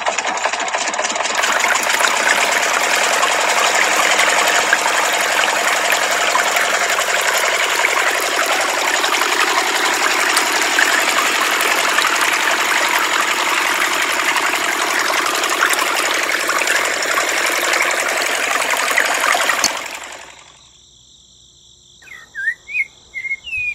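Small motor of a miniature model water pump running with a steady whir, stopping abruptly about 20 seconds in. A few bird chirps follow.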